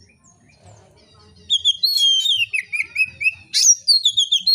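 Oriental magpie-robin singing loudly. About a second and a half in it starts a fast, varied run of whistled notes, quick chirps and sweeping notes, with one sharp upward sweep near the end.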